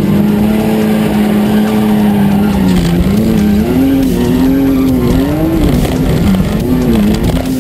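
Car engine heard from inside the cabin. It holds a steady pitch, then from about three seconds in is revved up and down again and again as the car is thrown around the infield.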